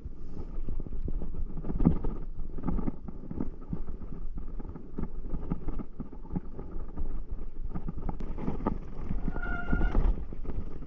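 Footsteps on a hiking trail, uneven thuds under a low rumble of wind on the microphone. A short pitched note sounds about nine and a half seconds in.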